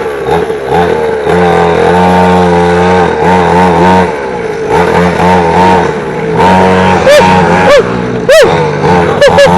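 Xpro 50cc mini dirt bike engine revving as it is ridden, the pitch rising and falling with the throttle. Near the end come several quick, sharp blips of revs.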